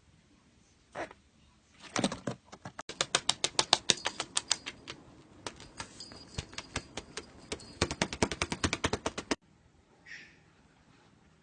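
Rapid run of sharp taps, about eight a second, which stops abruptly near the end.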